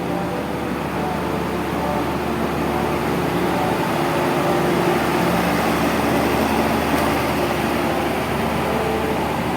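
Diesel train engine running steadily with a low hum, getting somewhat louder and hissier midway, then easing slightly.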